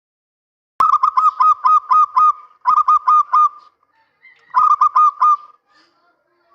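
Male zebra dove (perkutut) cooing: three phrases of quick, clipped coos, a long one of about eight notes and then two shorter ones with pauses between. The song starts abruptly about a second in.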